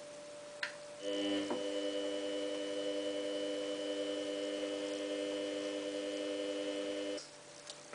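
Samsung WF8804RPA washing machine humming steadily while it senses the size of the load. The hum starts abruptly about a second in and cuts off about six seconds later, with a slight pulsing.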